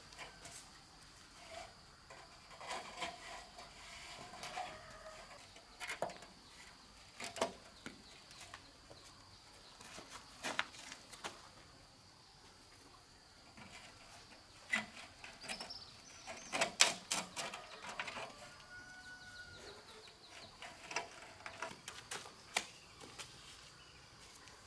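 Steady high-pitched insect drone, with irregular knocks, taps and scrapes scattered over it, a cluster of louder knocks about two thirds of the way through.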